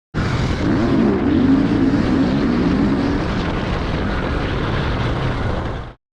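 Single-cylinder KTM dirt bike engine running hard while ridden around a motocross track, its pitch rising and falling with the throttle. The sound starts and cuts off abruptly.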